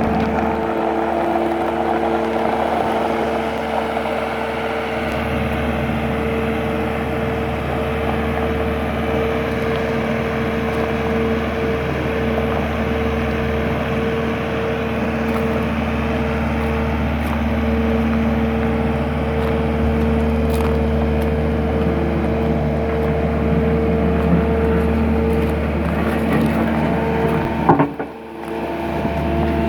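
Skid-steer loader running steadily, a constant machine hum with a few held tones. The sound cuts out briefly near the end, then comes back.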